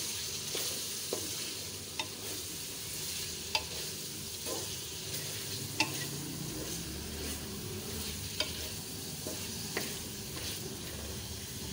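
Chicken pieces sizzling in oil as they are sautéed in a metal pan, stirred and scraped with a wooden spatula. The spatula clacks sharply against the pan every second or two over the steady sizzle.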